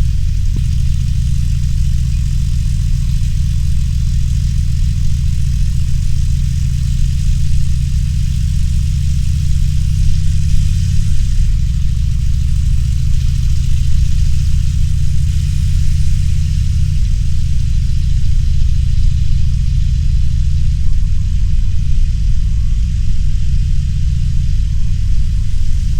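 Harley-Davidson Roadster's air-cooled V-twin engine running under way, a steady low exhaust note that shifts pitch about eleven seconds in and again a few seconds later as engine speed changes, with a steady hiss of wind and road noise over it.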